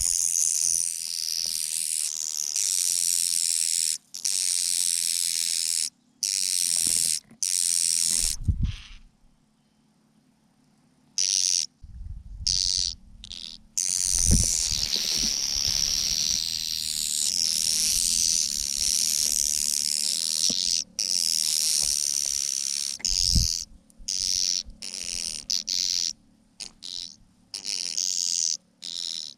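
A dense chorus of shrill, hissing bird calls, typical of birds clamouring to be fed, broken off by several abrupt cuts, with a few low thuds.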